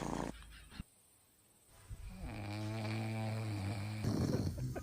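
Dog snoring: after a brief hush, one long, evenly pitched snore of about two seconds starts about two seconds in, followed by a few short clicks near the end.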